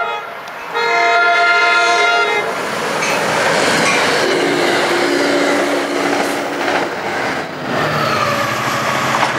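NJ Transit passenger train sounding a chord horn blast of about a second and a half, starting about a second in. The train then passes close by with a steady, loud rush of wheel and rail noise.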